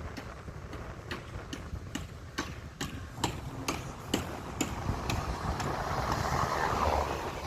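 A vehicle drives with a steady low rumble and wind noise. A regular clicking, about two clicks a second, runs over it and stops about three-quarters of the way through. The rushing noise then swells toward the end.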